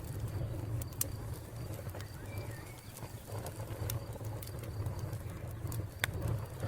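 Wood fire crackling, with sharp pops at irregular moments over a low steady rumble. A faint steady high cricket-like tone runs beneath, and a short bird chirp comes about two seconds in.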